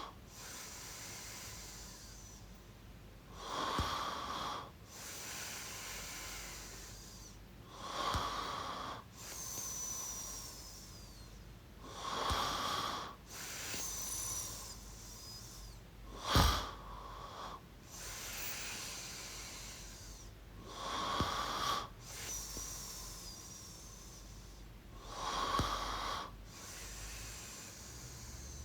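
A sleeping person snoring softly and steadily, one breath about every four seconds: a short snore followed by a longer, quieter breath out. About sixteen seconds in comes one sharper, louder snort, and a few faint high falling whistles sound during some of the breaths.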